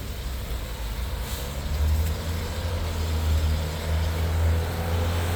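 Low engine rumble of a large road vehicle, growing louder about two seconds in and then holding steady.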